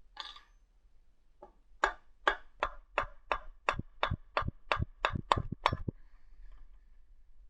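About a dozen sharp hammer blows in a steady rhythm, roughly three a second, each with a brief ring, after a short clatter at the start.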